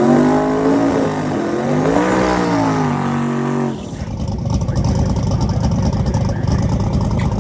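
A drag-race car's engine accelerating hard, its pitch climbing, dropping at a gear shift, climbing again and then holding. It cuts off a little under four seconds in, giving way to a rough, steady low engine rumble.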